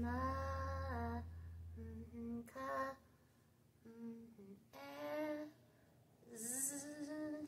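A woman's voice humming a short wordless tune: a few held notes in separate phrases, some sliding in pitch.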